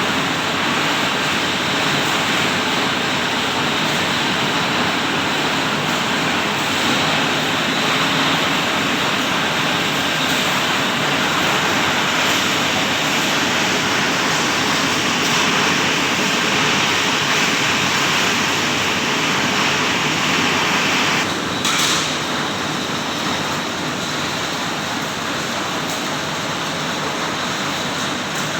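Compost shredder-sorter machine running steadily with a dense, even noise. About three quarters of the way through, the sound shifts briefly and then carries on a little quieter.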